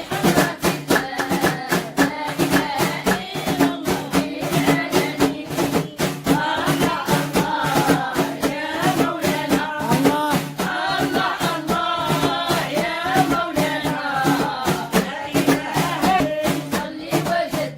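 Devotional dhikr singing: a voice chanting melodic religious phrases over a steady, even drum beat.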